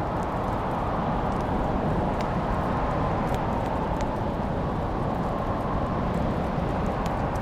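Log fire burning: a steady low rushing noise with a few faint crackles scattered through.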